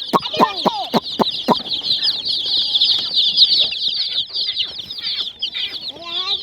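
A brood of chicks peeping together in a dense, continuous high-pitched chorus, with several short sharp sounds in the first second and a half.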